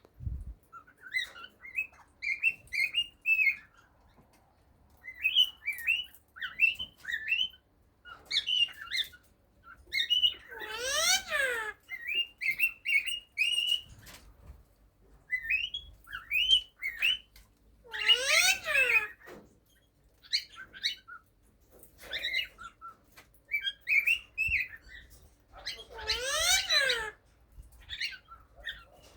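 Male cockatiel singing: runs of short whistled chirps, broken three times, about every seven or eight seconds, by a loud harsh call that rises and falls in pitch.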